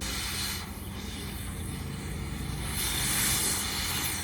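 A machine running steadily, a constant low hum and drone under a hiss that swells and fades.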